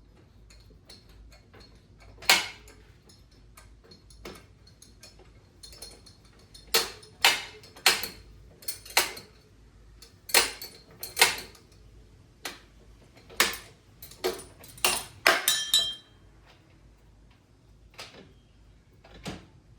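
Small metal tools and parts clinking and clattering as they are rummaged through and set down: a string of sharp knocks with a little ringing, busiest from about six to sixteen seconds in.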